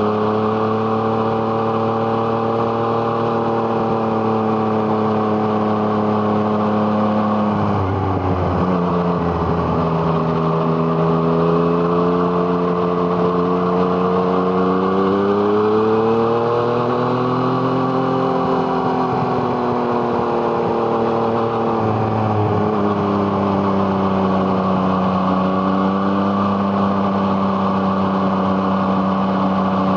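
2017 Yamaha MT-09's 847 cc inline-three with an Arrow Thunder aftermarket exhaust, running under way: the engine note holds steady, drops about a quarter of the way in, climbs as it accelerates to a peak past the middle, then eases back and runs steady again.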